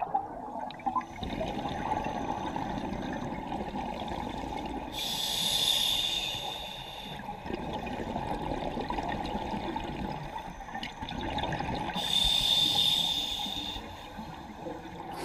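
Diver breathing through a scuba regulator underwater: a hissing inhale, then a long bubbling rush of exhaled air, repeating about every seven seconds.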